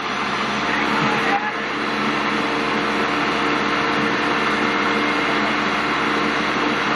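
Backhoe's diesel engine running steadily at a constant speed.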